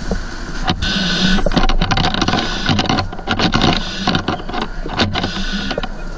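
A large house fire burning: a dense rushing noise with many irregular sharp crackles and pops, over a steady mechanical hum.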